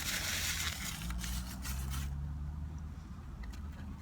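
Close-up chewing and crunching of a bacon cheeseburger on cheddar bread, dense for about the first two seconds and then quieter, over a low steady hum.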